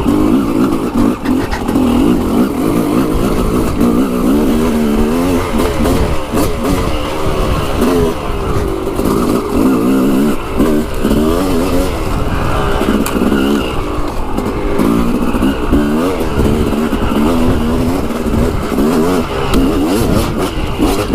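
Dirt bike engine running hard on a trail ride, its pitch repeatedly rising under throttle and dropping off as the rider accelerates and backs off.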